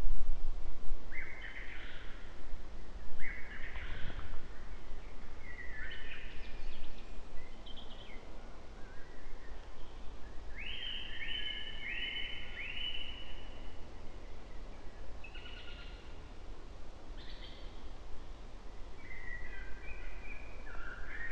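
Songbirds singing in short phrases every second or two, with a run of four quick rising notes about halfway through, over a low steady rumble.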